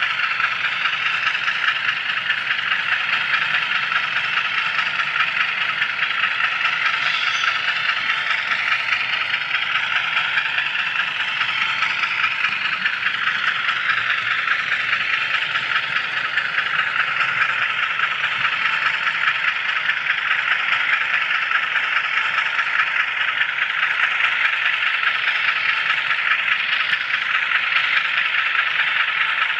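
HO scale camera car rolling along model railroad track, with a steady rattling whir from its wheels on the rails and its drive, picked up by the microphone riding on the car.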